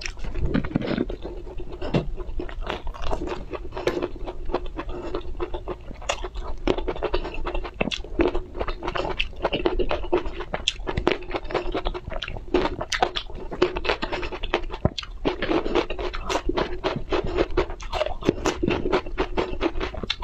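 Close-miked chewing of crunchy food, with a steady run of small, irregular crisp crunches and mouth clicks.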